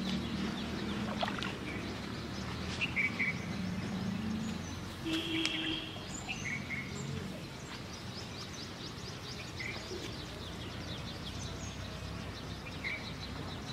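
Birds chirping in short calls every couple of seconds over a steady outdoor background noise, with a low hum in the first half.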